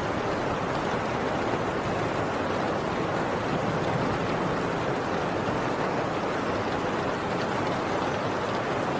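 Heavy rain on a tin roof, a dense steady downpour with no distinct drops or thunder standing out.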